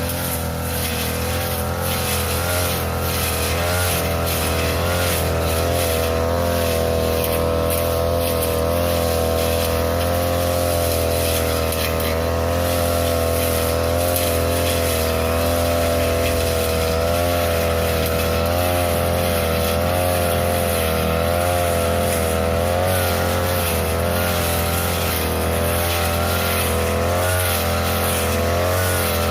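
Small petrol engine of a grass-cutting machine running steadily under load as it cuts grass, its pitch wavering slightly up and down.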